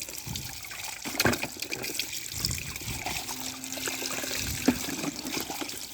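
Water trickling and splashing as muddy plastic toy vehicles are rinsed, with a few sharp knocks of the toys.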